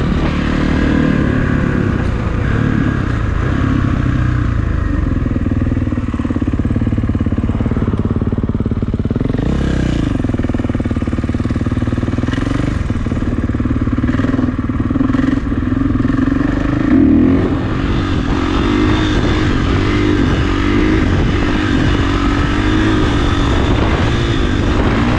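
Kawasaki KX450 four-stroke single-cylinder dirt bike engine running under way. The revs swell briefly a little past the middle, then the engine pitch rises and falls unevenly.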